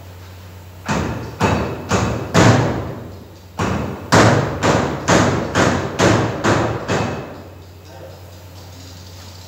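A run of loud knocks, about two a second, each ringing out briefly: four strikes, a pause of about a second, then eight more. A steady low hum runs underneath.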